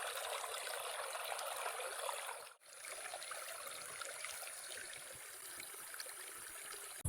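Forest stream flowing, a steady rushing and splashing of water, with a thin steady high-pitched hiss above it. The sound drops out for a moment about two and a half seconds in, then resumes a little quieter.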